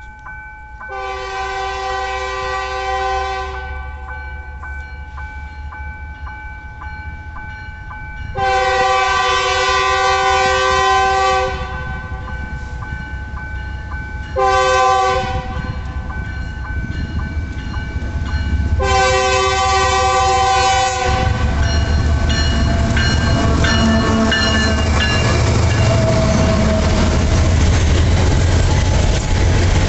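Diesel freight locomotive's air horn sounding the level-crossing signal: two long blasts, a short one, then a long one. The locomotive and its train then pass, a loud steady rumble of engine and rolling wagons.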